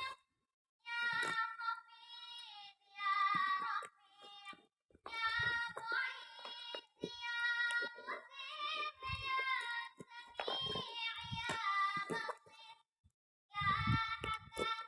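A very high-pitched, childlike singing voice in short held-note phrases with brief pauses, mixed with a few short low knocks.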